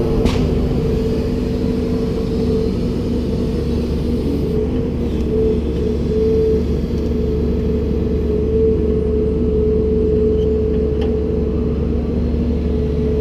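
Komatsu PC290-10 excavator's diesel engine and hydraulics running steadily, a constant low rumble with a steady hum, and a brief sharp knock just after the start.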